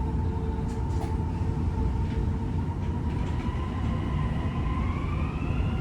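Dubai Metro train pulling away after its doors close: a steady low rumble with an electric whine that rises in pitch about four and a half seconds in as the train picks up speed.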